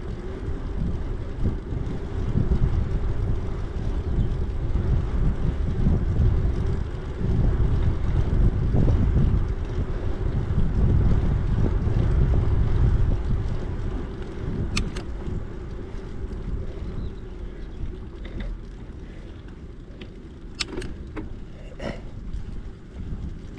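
Wind buffeting the microphone over the rumble of a bicycle on the move, heaviest in the first half and easing after about fourteen seconds, with a few sharp clicks or rattles near the end.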